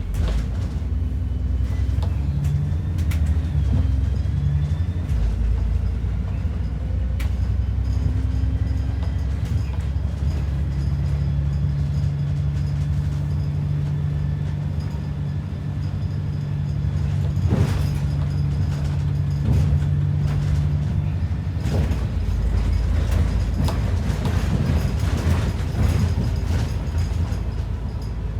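ADL Enviro 400 double-decker bus heard from inside while on the move: a continuous low engine and drivetrain drone with a steady hum, and body rattles. There is a sharp knock about 7 seconds in and a louder one about 18 seconds in. The engine note changes a little past two-thirds of the way through.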